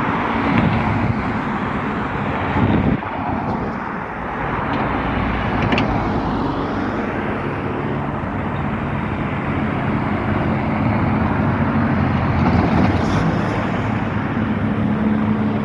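Helicopter hovering overhead, a steady drone mixed with road traffic.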